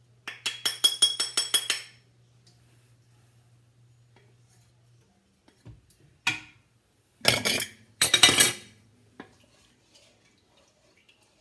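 A spoon clinking rapidly against a container, about ten quick ringing taps in a row, while homemade ketchup is scooped into a pot of sauce; a few more clatters of utensil on cookware follow later.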